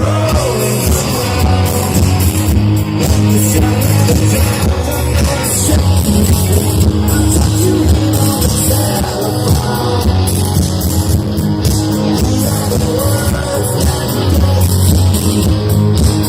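Rock band playing live at full volume, with electric guitars, bass, drums and singing.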